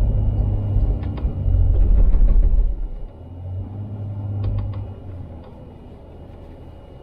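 Four-wheel-drive truck driving through deep snow: a low rumble of engine and tyres, heaviest for the first three seconds and swelling again around four seconds, with a few light creaks and clicks, then settling to a quieter steady rumble.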